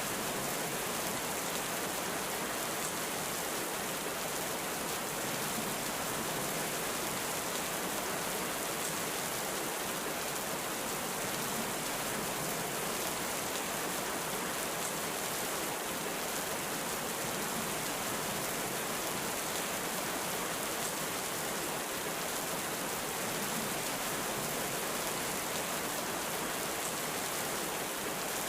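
Heavy rain falling steadily, an even hiss that neither rises nor falls.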